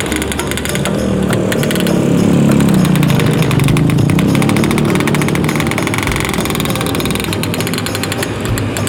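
Motorcycle engine running in slow traffic at close range, its note rising and then falling again about two to five seconds in.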